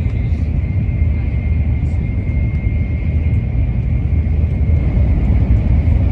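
Shinkansen bullet train running, heard from inside the passenger cabin: a steady low rumble with a faint steady high whine above it.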